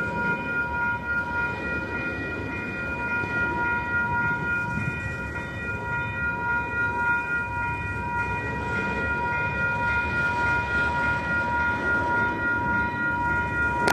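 Freight train of autorack cars rolling past, its wheels rumbling on the rails, over a steady high-pitched ringing tone made of several notes.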